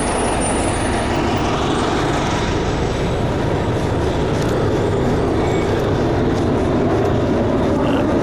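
City bus engine running close by at the stop, a steady loud rumble, with a thin high squeal that fades out in the first second.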